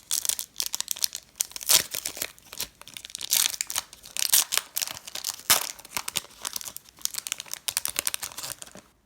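A Pokémon booster pack wrapper being torn open and crinkled in the hands, a dense run of irregular crackles and rips that stops just before the end.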